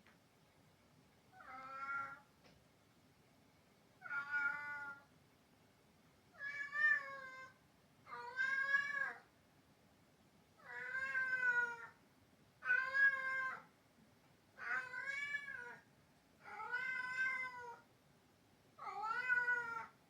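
A rescued domestic cat yowling loudly, a drawn-out 'wao, wa-oo' meow repeated nine times about every two seconds, each call about a second long and bending up and down in pitch. The owner does not know the cause and wonders whether the cat is calling someone or wants to go outside.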